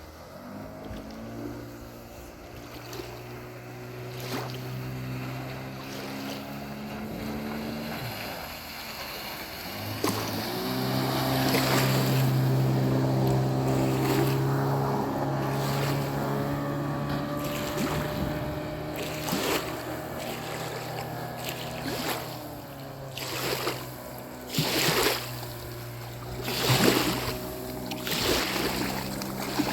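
An engine running at a steady pitch, dipping briefly and picking up again about ten seconds in. Toward the end, short noisy gusts come over it again and again.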